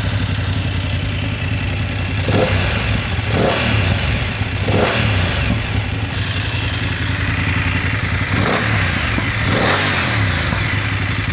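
BMW F900GS parallel-twin engine running at idle through its Akrapovič exhaust, blipped up and back down about five times.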